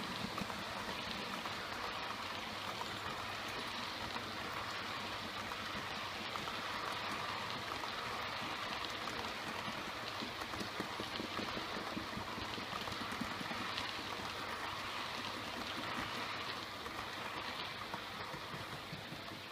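Model train running on the track: a steady rattling hiss of small wheels on rails, with fine ticks throughout.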